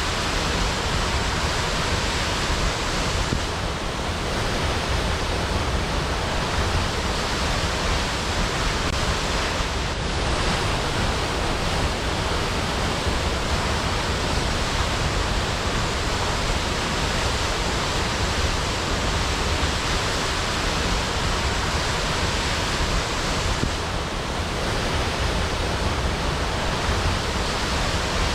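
Waterfall: the steady, even noise of falling water, unbroken throughout.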